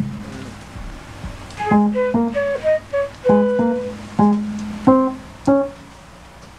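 Music: a full band chord dies away, then a keyboard, most like a piano, plays a slow run of about ten single struck notes, each ringing and fading, before the sound fades out near the end.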